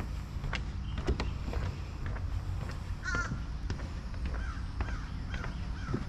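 A bird calls once about three seconds in, then gives four shorter calls in a row. Footsteps tap on wooden boardwalk planks throughout.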